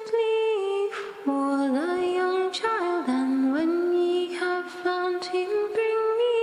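Wordless sung vocal harmony: two voices hum long held notes together, sliding smoothly from one pitch to the next.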